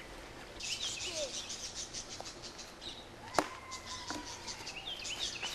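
Outdoor ambience with a bird singing two rapid runs of repeated high chirps, and a single sharp click about three and a half seconds in.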